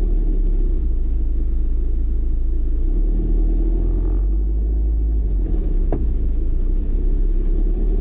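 Steady low rumble of a car's engine and road noise while driving, with a single short click about six seconds in.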